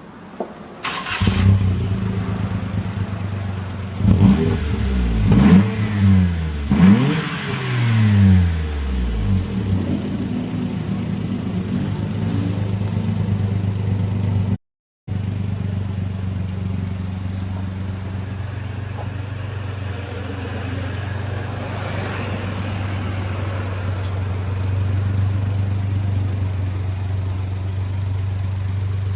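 Tuned Suzuki Alto Works HA36S three-cylinder turbo engine with a Trust aftermarket exhaust, starting about a second in, revved in several quick blips, then idling steadily. A brief cut to silence midway.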